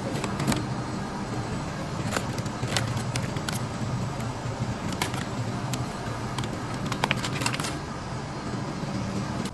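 Busy store background noise: a steady low hum with scattered clicks and knocks.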